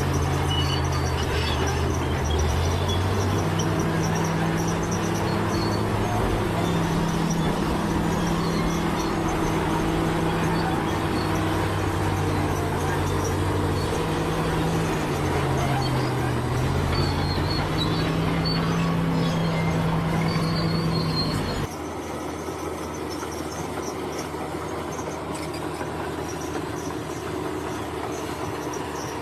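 Bulldozer's diesel engine running under load, its pitch rising and falling as it works. About three-quarters of the way through, the sound cuts abruptly to quieter, steady background noise.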